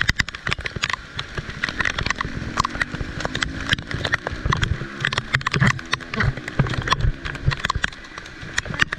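Heavy rain in a flooded street: raindrops tapping sharply close to the microphone over a rumble of rain and runoff, with a low droning tone through the middle.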